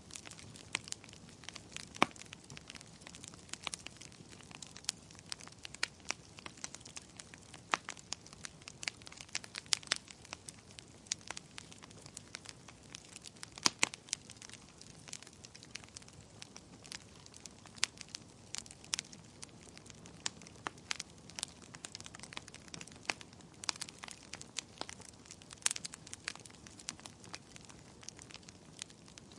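Bonfire of burning wood crackling: irregular sharp snaps and pops, a few louder than the rest, over a soft steady hiss of the flames.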